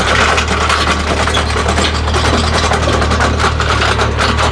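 Tractor engine running under load, driving a mounted earth auger that bores a hole in the ground. A steady low engine drone with a dense, rough rasping over it that gets louder right at the start and then holds.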